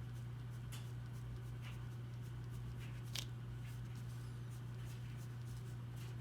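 Faint scratching strokes of a drawing tool on paper, a few scattered strokes with one sharper tick about three seconds in, over a steady low electrical hum.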